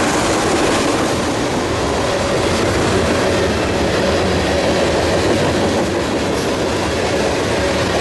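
Manifest freight train's cars rolling past, with a steady rumble and clatter of steel wheels on the rails.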